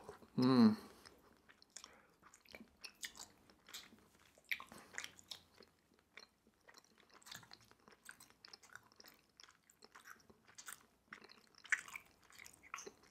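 Close-up mouth sounds of a person chewing soft, chewy Korean rice cakes (tteokbokki) in a thick sauce: quiet, irregular wet clicks and smacks. A brief hum of the voice comes about half a second in.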